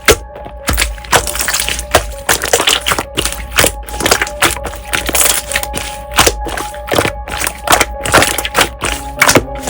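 Slime being squeezed and poked, giving a quick, irregular run of crackling, popping clicks, with faint background music underneath.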